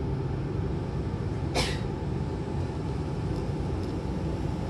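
Hankyu train running noise heard from inside the car as it pulls away from the station: a steady low rumble from the wheels and motors. A brief hiss cuts through it about one and a half seconds in.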